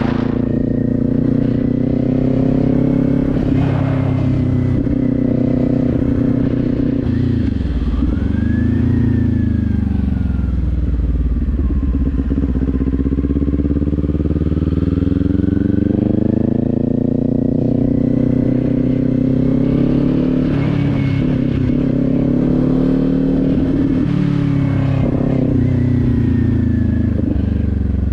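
Kawasaki Z400 parallel-twin engine under way, its note rising and falling as the rider works the throttle. It drops sharply and briefly a few times, about 4, 8, 20 and 25 seconds in, at each gear change.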